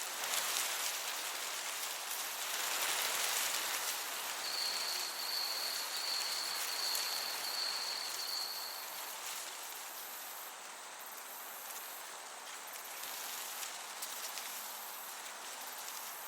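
Summer meadow ambience: a steady hiss of breeze. About four seconds in, a cricket's high pulsing chirp joins it for several seconds.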